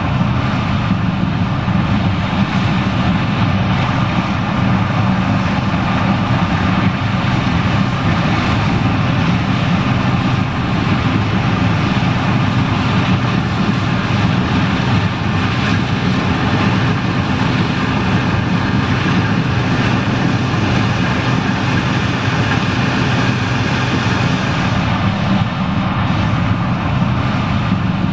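John Deere 9870STS combine running steadily while harvesting corn: a constant engine drone with a steady mechanical whine above it.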